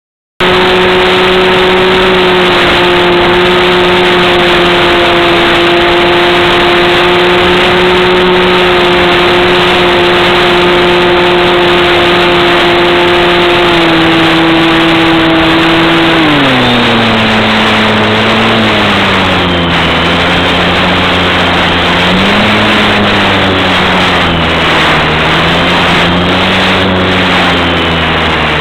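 Brushless electric motor and propeller of a GWS E-Starter RC plane running with a steady tone under heavy wind rush. A little past halfway the pitch drops, then wavers up and down.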